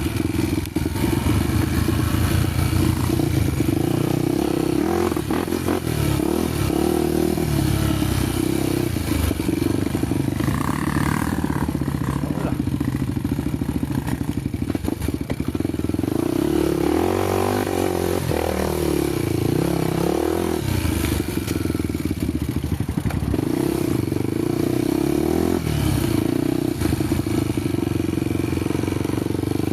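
Honda motorcycle engine running while riding, its pitch rising and falling with the throttle, most clearly a little past the middle.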